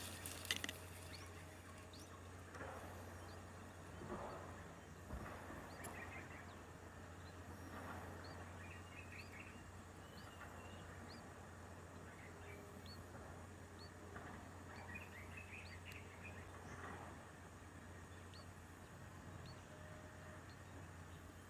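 Faint, short, high bird chirps repeating about once a second, with brief rustling now and then and a steady low hum underneath.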